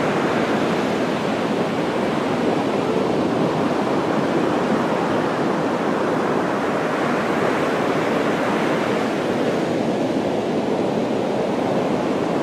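Steady rushing water noise, an even roar that swells and eases slightly.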